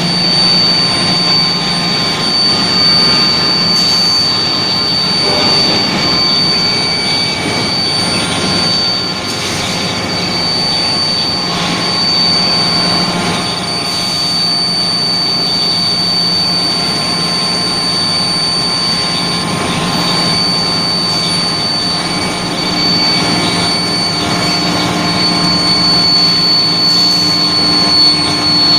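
Steel plate induction heating furnace line running: a steady, loud industrial noise with a constant high-pitched whine over a low hum.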